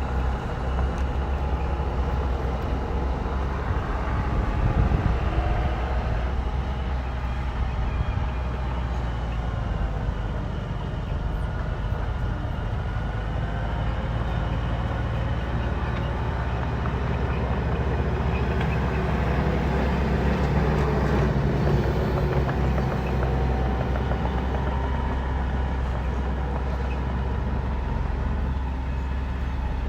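Heavy diesel machinery, a bulldozer, running steadily, its deep engine drone with a fainter higher note that drifts up and down slightly.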